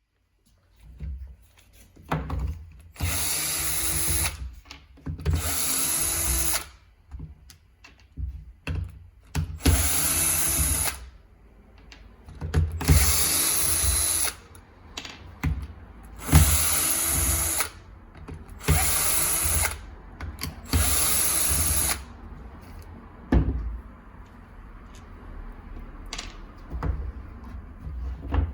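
Bosch GSB 13 RE hammer drill switched on in short bursts, about seven times, each spinning up and running for a second or two before winding down, with handling knocks in between. The drill's fault is that it stays stuck in hammer (impact) action.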